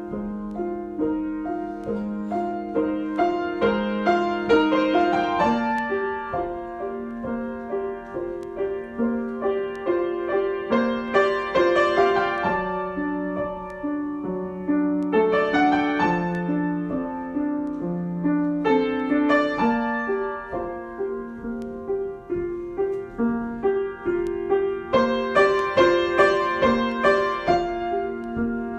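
Solo piano improvisation: quick, even repeated notes over sustained chords, swelling louder and easing off several times.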